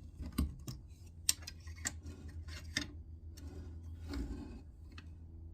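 Small metal hardware and tools clicking and clinking as they are handled and fitted, a series of light, sharp clicks with a brief scraping sound about four seconds in.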